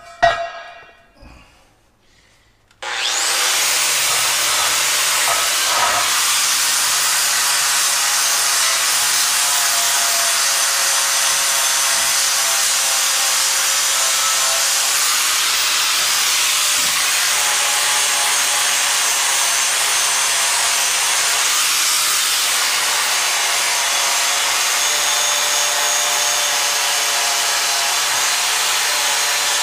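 Grinder spinning a Norton Blaze Rapid Strip disc against the steel to strip and clean the metal surface. It starts about three seconds in and runs steadily as a loud grinding hiss with a faint whine.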